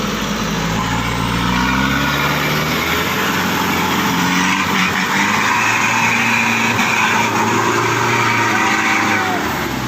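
Truck engine working hard under load in mud, its revs rising and falling several times with a loud rushing noise over it.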